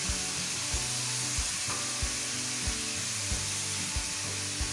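Chicken pieces and halved tomatoes sizzling steadily in hot oil in a karahi, under a soft low thump about every two-thirds of a second.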